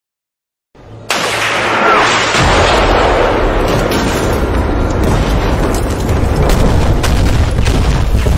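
A dense, continuous rumble of explosions with crackling detonations through it. It starts suddenly about a second in, grows deeper a little later, and cuts off abruptly at the end.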